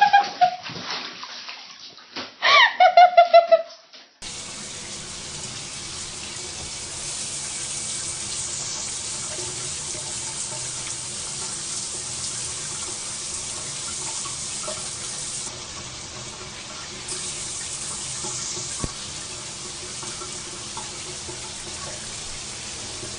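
A few short, pitched, voice-like cries in the first four seconds, then a steady rushing noise that starts suddenly and runs on evenly, of the kind made by running water.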